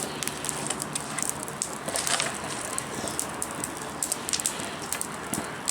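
Wood bonfire crackling, with many sharp irregular pops and snaps over a steady hiss.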